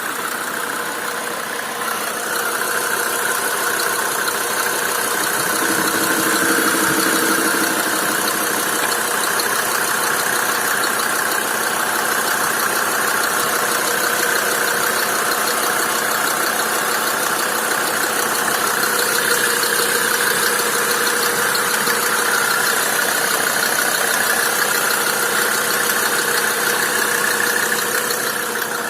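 Mercedes OM605.960 2.5-litre five-cylinder turbodiesel engine running steadily on test.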